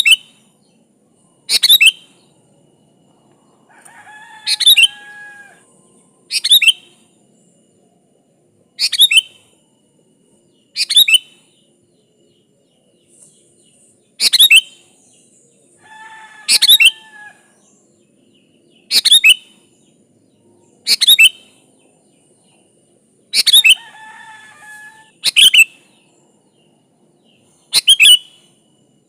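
Sooty-headed bulbul (kutilang) singing: a sharp, loud call repeated about every two seconds, about a dozen times, with softer warbled phrases in between at a few points.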